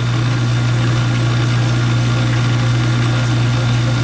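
GE dishwasher motor running with a steady low hum, turning freely again after being locked up from disuse.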